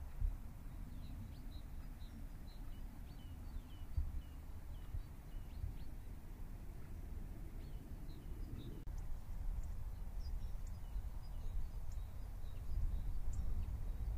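Outdoor ambience of small birds giving many short, scattered chirps over a steady low background noise.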